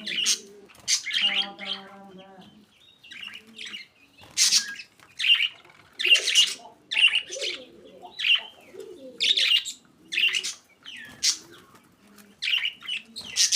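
Budgerigars calling: loud, sharp chirps about once a second over a softer, lower chatter. A brief low-pitched call sounds in the first couple of seconds.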